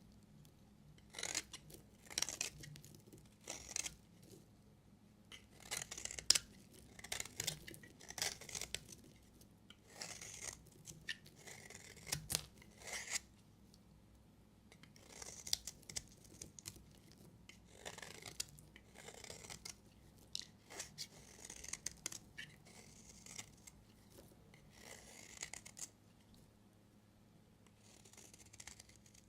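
A knife cutting through bars of soap: a series of short scraping cuts, one about every second, with a few brief pauses.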